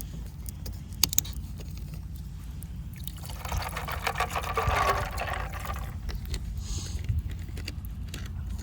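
Straight tea poured into a cup of whiskey, starting about three seconds in and lasting a couple of seconds. A couple of sharp clicks come just before, about a second in.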